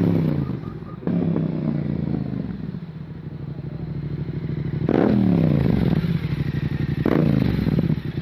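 Yamaha MT-07's parallel-twin engine idling, with quick throttle blips about five seconds in and again about seven seconds in, its pitch jumping up and falling back each time.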